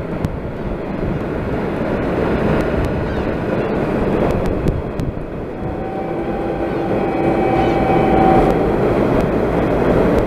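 Four-car diesel train running across a steel girder bridge: a dense, steady rumble of the cars on the bridge. About six seconds in, a held horn tone sounds for nearly three seconds over the rumble.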